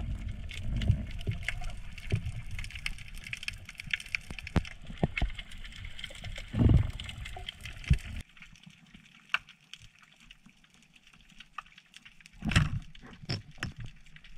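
Water noise around the camera: sloshing and bubbling with many scattered clicks and a couple of louder thumps. The low rumble drops out suddenly about eight seconds in.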